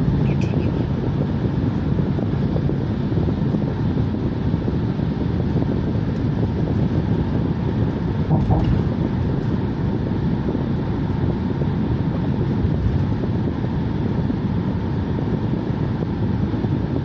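A car being driven: steady rumble of engine and tyres on the road, with a short louder moment about eight seconds in.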